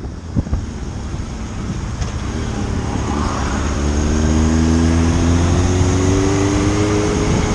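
Motorcycle engine accelerating in one gear, its pitch rising slowly and steadily from about two seconds in and growing louder, over wind noise on the microphone that buffets at the start.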